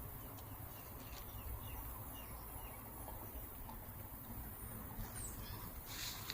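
Faint small-bird chirps over a steady low rumble, with a few clearer high notes falling in pitch near the end.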